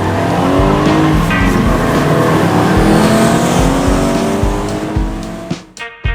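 Race-car engine revving hard, its pitch climbing and falling again and again as through gear changes, over a steady low beat; the sound fades out near the end.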